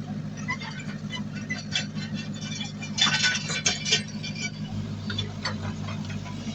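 Heavy diesel earthmoving machinery running steadily, with a cluster of clinking and rattling, like soil and stones, loudest about three seconds in. A deeper engine tone joins near the end.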